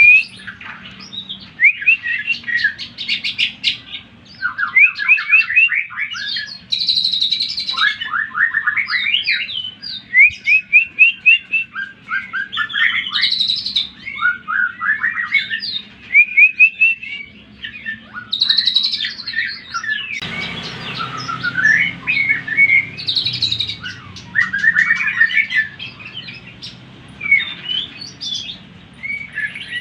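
Greater green leafbird (cucak ijo) singing an agitated, challenging song. It gives loud, rapid bursts of varied rising whistles and chattering trills with short pauses between phrases, over a faint low hum.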